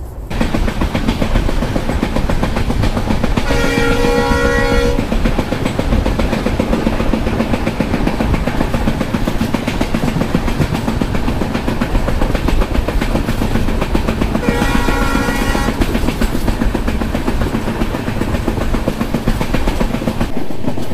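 Passenger train running on the rails with steady wheel and track noise. The locomotive horn sounds twice, each blast about a second and a half long: the first about four seconds in, the second about ten seconds later.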